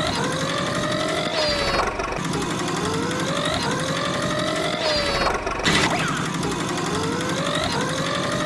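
A looping engine-like vehicle sound effect: a steady rumble under rising whines that rev up and fall back, the whole cycle repeating about every three and a half seconds.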